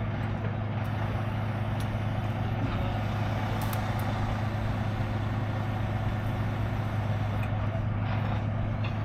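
Heavy truck engine running steadily with an even, unchanging low hum.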